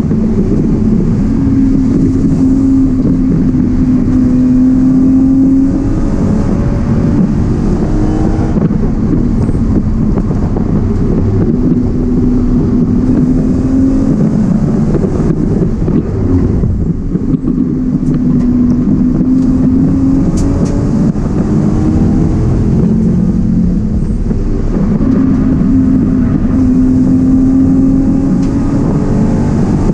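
BMW E36 328i's straight-six engine heard from inside the cabin under hard track driving, its revs climbing, dropping away and climbing again several times through gear changes and lifts.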